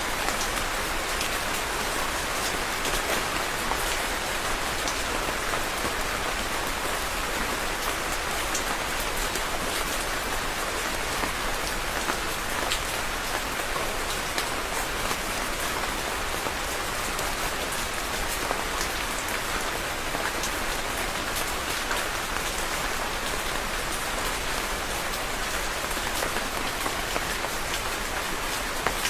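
Steady rain falling on a surface, a dense even hiss with many small drop ticks scattered through it.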